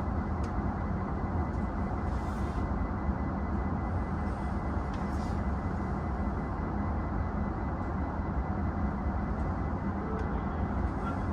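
Steady low hum and rumble inside an E233-6000 series commuter train car standing still, with a faint thin high tone running under it.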